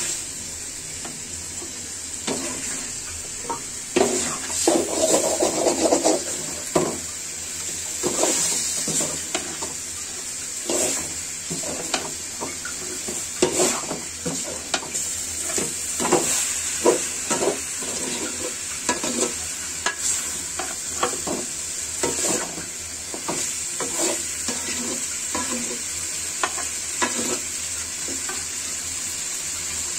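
Chicken pieces in spice paste sizzling steadily in oil in a metal pan, with a metal spoon stirring and scraping against the pan in irregular strokes. This is the kosha stage, the meat being sautéed hard in its masala.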